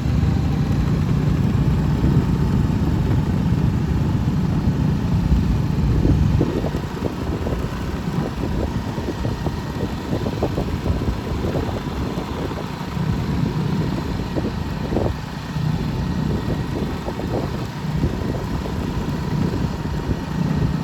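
Motorcycle engine running steadily while being ridden, with a continuous low rumble; the sound eases slightly about six seconds in.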